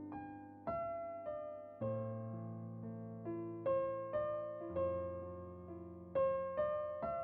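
Background music: a slow, gentle piano piece, single notes and chords struck every half second or so and left to ring out.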